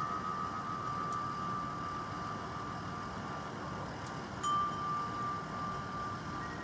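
Wind chimes ringing outdoors: a few long, clear tones that slowly fade, with a fresh strike about four and a half seconds in, over a faint steady background hiss.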